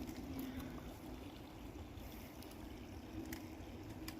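Steady noise of running creek water, with a couple of faint clicks near the end.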